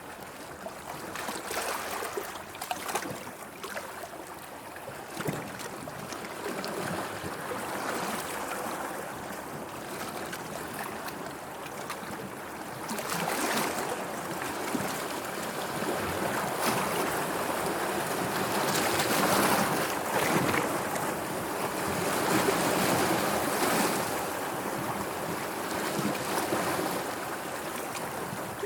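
Sea waves washing in, a steady rush of water that swells louder in slow surges, most strongly in the second half.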